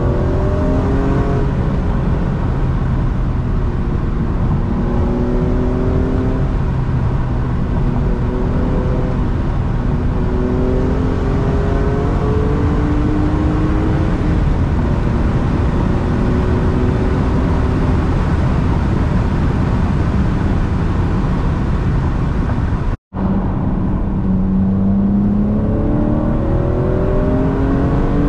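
BMW E46 M3's S54 inline-six, with an Eventuri intake and a Status Gruppe muffler, heard from inside the cabin under hard acceleration. The engine note climbs in pitch and drops back several times as it is run through the gears. The sound cuts out for a split second about five seconds before the end.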